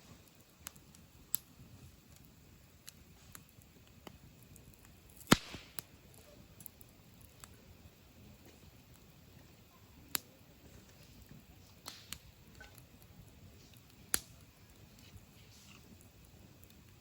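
Burning firewood crackling, with scattered sharp pops at irregular intervals. The loudest pop comes about five seconds in and is followed by a brief hiss, and two more distinct pops come about ten and fourteen seconds in.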